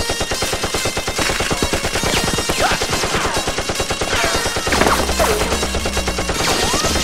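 Rapid automatic gunfire, many shots a second without a break, with falling whistling sweeps laid over it: a machine-gun sound effect dubbed onto Nerf blasters being fired. Background music with a low bass line comes in about five seconds in.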